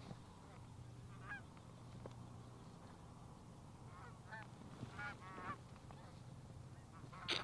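A flock of wild geese honking faintly in the distance, a scattering of calls about a second in and a cluster between four and five and a half seconds. A much louder, closer goose call starts at the very end.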